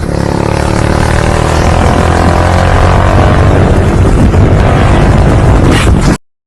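A loud engine running steadily under a heavy rushing noise, cutting off abruptly near the end.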